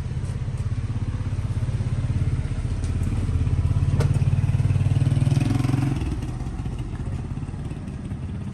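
Motorcycle engine running with a low, pulsing note that grows louder through the middle, then drops away about six seconds in. There is a single sharp click about four seconds in.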